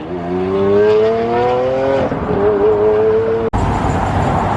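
A car engine accelerating hard, its pitch climbing steadily for about two seconds and then holding steady. It cuts off abruptly about three and a half seconds in, replaced by a loud, even rushing noise.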